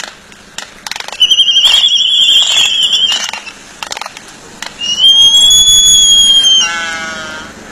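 Birds calling: two long, high-pitched squealing calls of about two seconds each, the second sliding into a lower, buzzier call that fades, with a few sharp clicks before the first.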